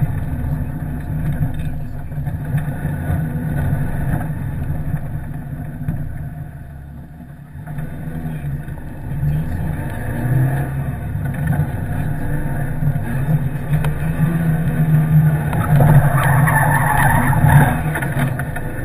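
Peugeot 106 rally car's engine running hard under load, heard from inside the stripped, roll-caged cabin. The engine note falls away about six seconds in and builds again from about eight seconds, and is loudest near the end.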